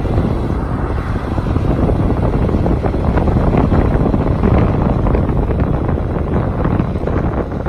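Diesel engine of a 2003 International 7400 bucket truck running steadily, driving the hydraulics as the boom's lower elevator is raised, with wind buffeting the microphone.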